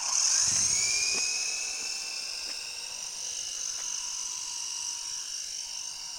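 Radio-controlled model helicopter's motor and rotor whining at high pitch. It starts suddenly, is loudest in the first second, then runs steadily.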